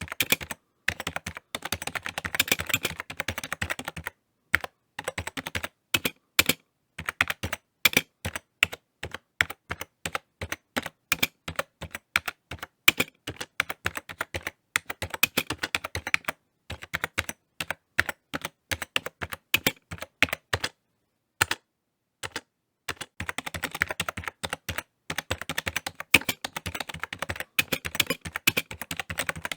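Typing on a computer keyboard: quick runs of key clicks broken by brief pauses, with slower, separate keystrokes in the middle stretch and a longer pause about three quarters of the way through.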